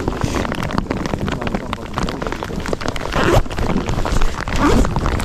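Strong wind buffeting the microphone, a loud uneven low rumble with scattered crackles.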